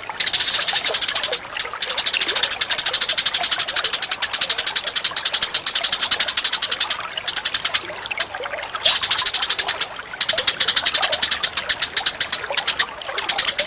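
Recorded songbird calls: a very rapid, machine-gun-like chatter of sharp high chips in long runs broken by a few short pauses, over faint running water.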